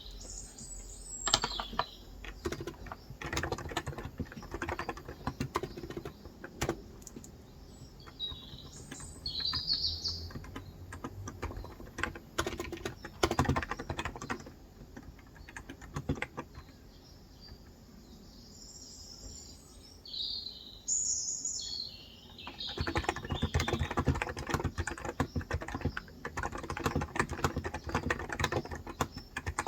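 Typing on a Cox Endeavor electro-capacitive (무접점) tenkeyless keyboard with light 35 g switches: runs of quick keystrokes with a lull in the middle and a long, dense run near the end. Birds chirp outside near the start, about ten seconds in, and again just before the final run of typing.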